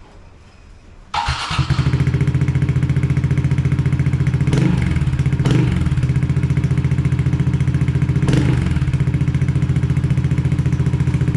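Honda Dax 125's air-cooled single-cylinder four-stroke engine starting about a second in and then idling steadily through a Yoshimura Straight Cyclone 762 exhaust, with an even, rapid exhaust pulse. Three short rises in pitch come in the middle.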